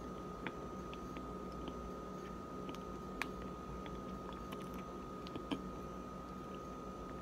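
A person chewing a mouthful of pressed cornstarch chunks with the mouth closed, with a few sharp crunches and clicks. A faint steady high tone runs underneath.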